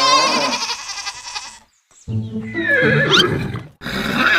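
Two long, wavering animal-like calls over music, with a short break between them.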